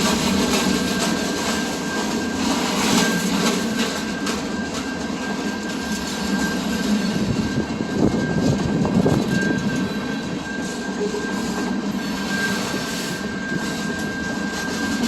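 Train rolling past: a continuous rumble of rail cars on the track, swelling about halfway through, with a thin steady high-pitched squeal over it.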